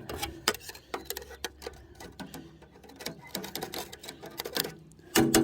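Sheet-metal stovepipe section rattling and clicking in quick, uneven taps as it is rolled and knocked, shaking loose soot and ash out of it. A louder, short sound comes near the end.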